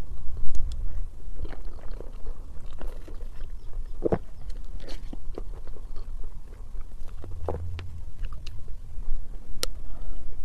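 Close-miked eating of soft cream crepe cake: wet chewing and mouth sounds, a metal spoon scooping the cake, and a few sharp clicks scattered through, the clearest about four seconds in and near the end.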